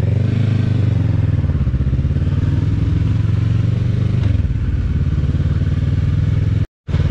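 Motorcycle engine running under way, with rushing noise over it; the engine note drops about four seconds in. The sound cuts out completely for a moment near the end.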